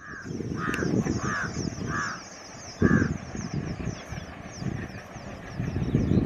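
A crow cawing five times in the first three seconds, over a continuous rapid high-pitched chirring and an uneven low rumbling noise.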